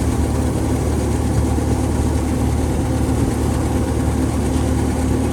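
An engine running steadily at constant speed, a low hum with no change in pitch or loudness.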